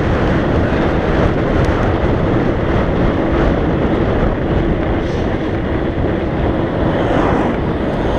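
Steady wind buffeting the microphone while riding a mountain bike along a country lane, a dense rushing noise with a faint steady hum running through it.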